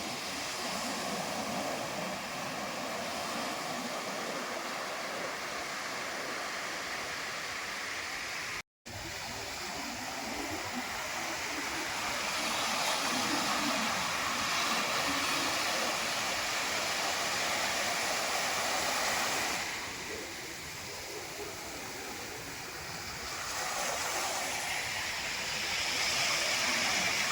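Sea surf washing on the shore: a steady rushing hiss that swells louder for several seconds at a time and eases off, with a brief break about nine seconds in.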